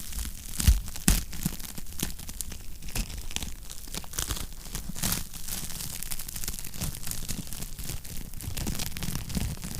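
Wood fire crackling in a fireplace: steady hiss with dense, irregular pops and snaps, a couple of louder pops about a second in.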